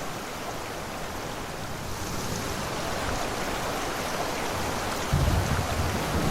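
Steady rushing water noise, with a louder low rumble coming in about five seconds in.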